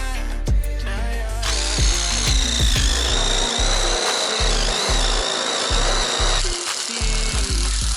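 A power drill running for about five seconds with a steady high whine, starting about a second and a half in and stopping suddenly, over background hip-hop music with a heavy bass beat.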